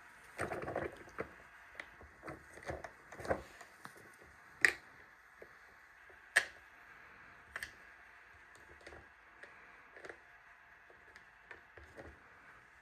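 Irregular light clicks and taps, with a few duller knocks near the start and two sharper, louder clicks about five and six and a half seconds in.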